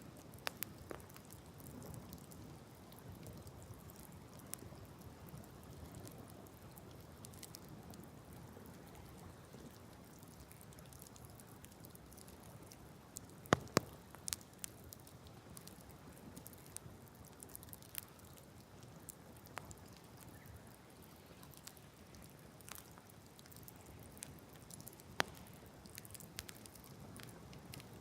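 Wood campfire burning, with scattered sharp crackles and pops over a low steady rush; the loudest pops come in a quick cluster about halfway through.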